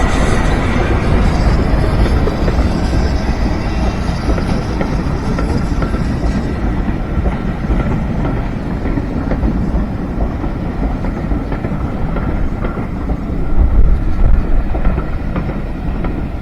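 A heritage-railway train running past at close range, its wheels rolling over the rails. The higher part of the sound fades after a few seconds, and it grows louder for a moment about three-quarters of the way through.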